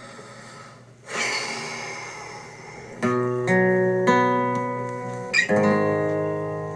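Acoustic guitar strummed: one chord about a second in, then chords ringing out from about three seconds in, with another sharp strum near the end.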